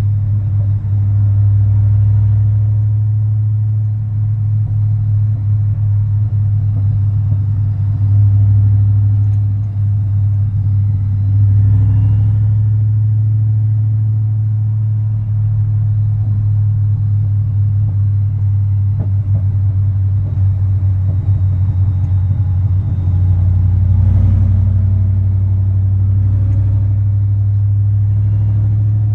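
Supercharged 5.4-litre V8 of a 1999 Ford F-150 SVT Lightning pickup running under way: a steady deep drone that swells in loudness a few times.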